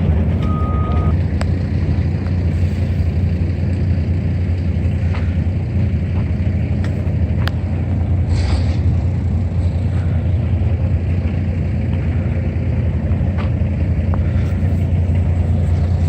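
An engine running steadily with an even low rumble, with a short high beep about half a second in.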